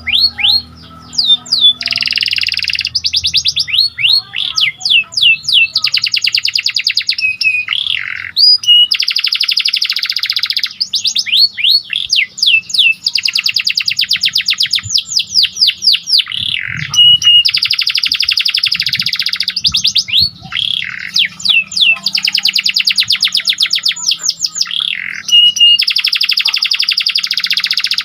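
Canary singing a long, loud, continuous song: fast trills of rapidly repeated notes lasting about a second each, alternating with quick rising and falling whistled notes.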